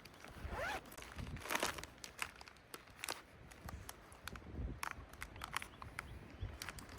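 Rustling and crinkling with many small clicks and knocks, as of camp gear or packaging being handled, and a short zip-like sweep about half a second in.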